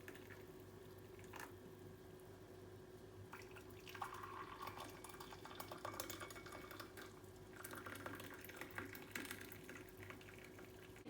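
Faint water sounds, a trickle or drip, with light clicks and clinks of dishes, coming and going over a low steady hum.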